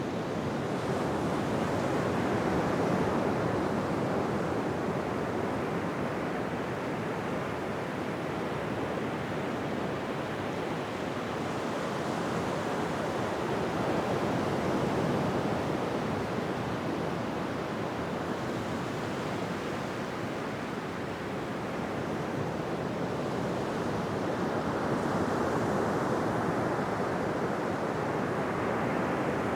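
Ocean surf on a beach: waves breaking and washing in, a continuous rushing hiss that swells and eases slowly every ten seconds or so.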